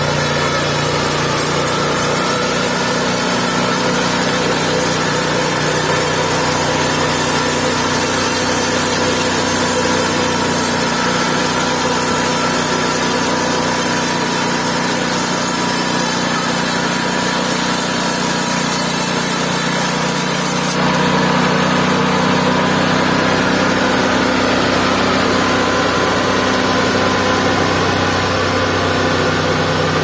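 Mobile band sawmill's engine running steadily. The sound changes abruptly about two-thirds of the way through.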